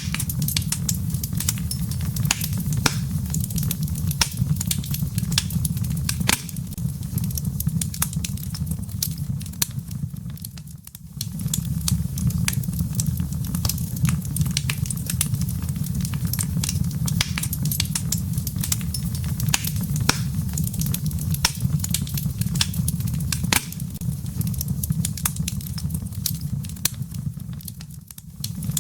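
Wood fire in a fireplace crackling over glowing embers: frequent sharp pops and snaps over a steady low rumble. The sound briefly drops away about eleven seconds in and again near the end.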